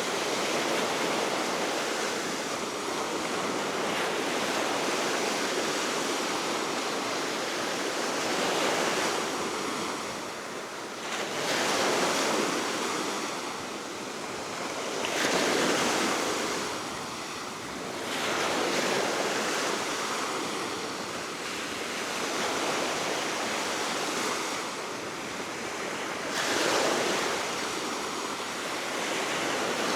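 Baltic Sea waves breaking and washing ashore in steady wind, the surf surging and easing every few seconds.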